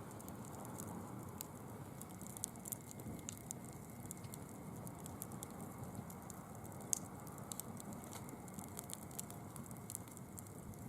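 Small campfire crackling as dry fallen leaves burn, with many quick sharp ticks and pops over a steady low rush, and one louder pop about seven seconds in.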